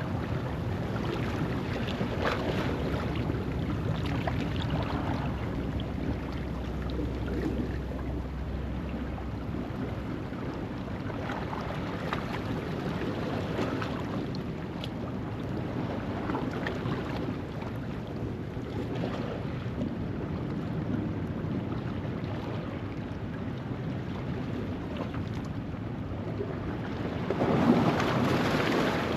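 Ocean waves washing over a rocky shoreline at low tide: a steady wash that swells and ebbs, with the largest surge near the end.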